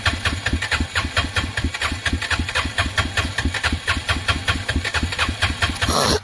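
Arctic Cat 366 ATV's single-cylinder four-stroke engine running at a steady, even idle beat, briefly picking up, then cutting off suddenly near the end. It is struggling with a suspected fuel-supply problem that the owner blames on the carburettor.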